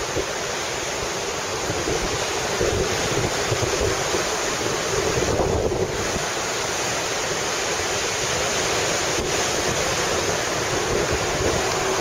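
Rough, typhoon-whipped sea: surf churning and breaking without pause, with strong wind gusting across the microphone as a low, uneven rumble.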